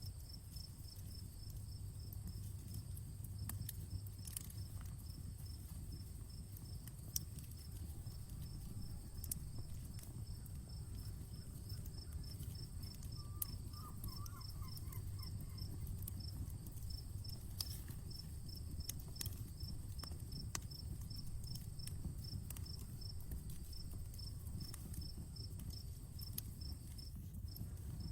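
Outdoor wood campfire crackling, with scattered sharp pops over a steady low rumble of burning. Crickets chirp steadily in the background at about four chirps a second, over a thin, high, constant insect drone.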